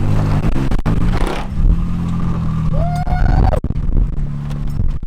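Off-road 4x4 truck engine running under load and revving as it crawls over rocks, with a brief shout about three seconds in.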